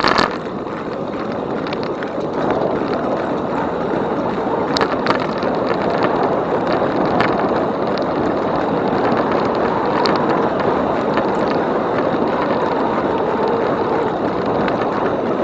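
Steady rushing noise of an e-bike ride: wind on the microphone and the tyres rolling on the trail. There are a few faint ticks along the way.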